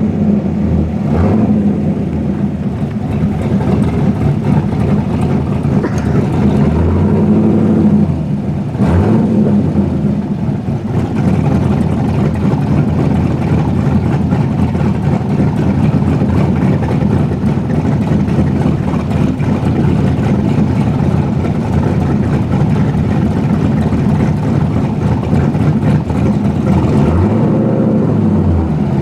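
Corvette sports car engine running, a steady low note whose pitch shifts up and down a few times in the first several seconds and again near the end, as the engine is revved.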